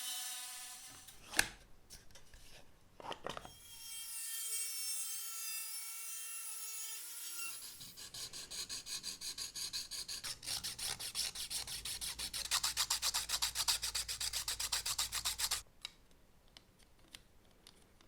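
Rapid, even back-and-forth rubbing strokes of abrasive hand work on a part, which stop abruptly about two-thirds of the way through. Before them there are two sharp knocks, the louder one about a second and a half in.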